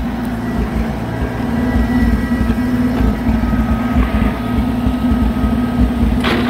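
Oliver 770 tractor engine running steadily under way, a low even rumble with a steady hum. A brief knock comes near the end.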